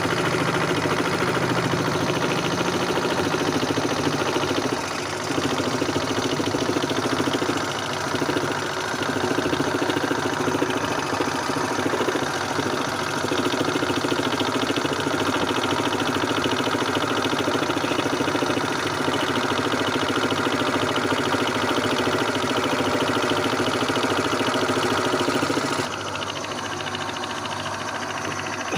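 Homemade scroll saw running steadily, its blade rapidly chattering up and down as it cuts. Near the end the sound drops to a quieter, thinner running.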